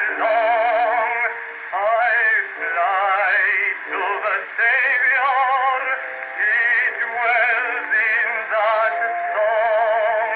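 Edison Amberola 30 cylinder phonograph playing a Blue Amberol cylinder record: a man singing with heavy vibrato over instrumental accompaniment, in thin, bass-less acoustic-recording sound.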